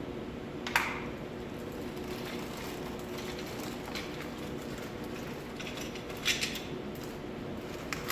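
Office-chair parts being handled during assembly: two sharp knocks, about a second in and again about six seconds in, with a smaller click near the end, over a steady low hum.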